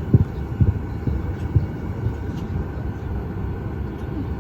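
Steady low rumble inside a Boeing 737 MAX 8 cabin on the ground, with a few short dull thumps in the first second and a half.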